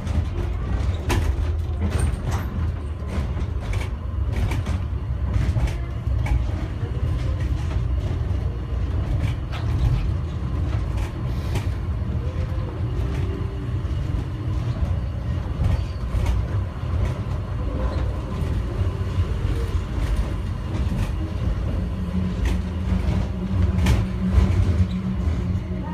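Cabin rumble of an airport inter-terminal people-mover train running between stations: a steady low rumble with scattered clicks and rattles. A steady hum joins about 22 seconds in.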